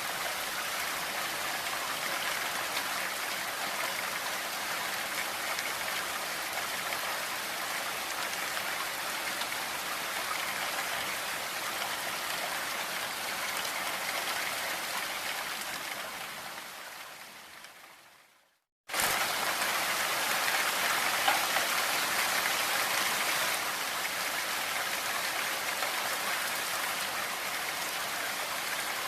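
Steady rain falling, an even hiss of drops. About two-thirds through it fades out to a brief silence, then starts again abruptly, a little louder for a few seconds.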